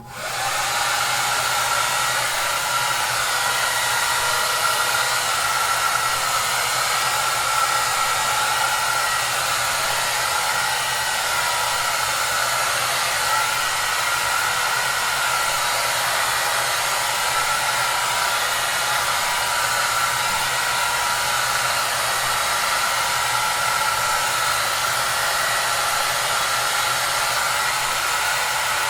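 Hair dryer running steadily: an even blowing rush with a constant whine and low motor hum. It cuts in abruptly at the start after a moment of silence.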